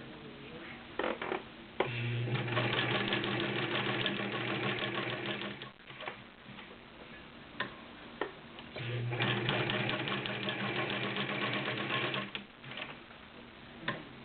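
Singer 306K sewing machine stitching through three layers of garment leather in two runs of about four seconds each. The motor hums steadily under fast needle strokes. A few sharp clicks come in the pauses before, between and after the runs.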